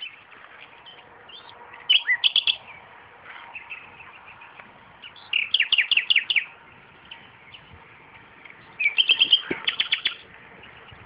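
Nightingale singing: three loud phrases of fast, repeated notes, about two, five and a half and nine seconds in, with quieter scattered notes between them.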